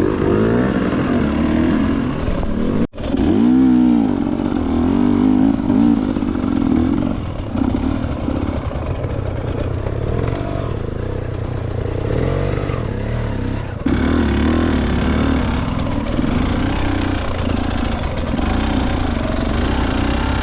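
Dirt bike engine running under a rider's throttle, its pitch rising and falling as it revs and eases off. The sound cuts out for an instant about three seconds in, then returns revving.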